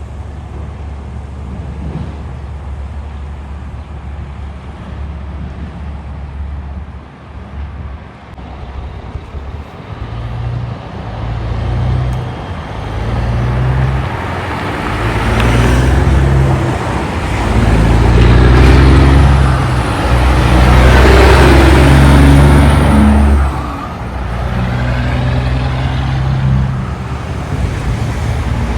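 Heavy truck's diesel engine pulling past in traffic, shifting through several gears so its pitch steps up and drops back every second or two. It grows louder from about ten seconds in, is loudest near twenty seconds, then fades over steady traffic noise.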